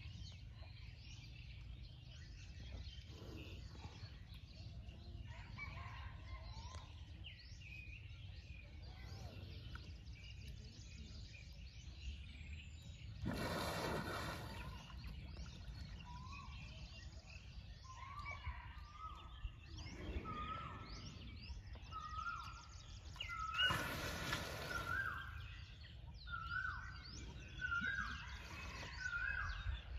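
Outdoor ambience of birds chirping and calling, with one bird repeating a short call about once a second through the second half. Twice, about halfway through and again later, a loud rushing noise lasting a second or so rises over it.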